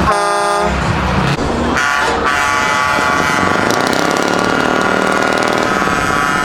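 Truck air horns: a short blast, then about a second later a long, steady blast held on several tones, over a low engine rumble.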